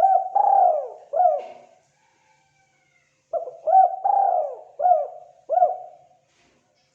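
Spotted dove (tekukur) cooing: two phrases of short rising-and-falling coos, about four notes, then after a pause of nearly two seconds about five more.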